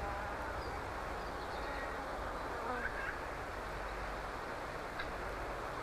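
A steady, dense chorus of frogs calling, with a few separate croaks standing out above it.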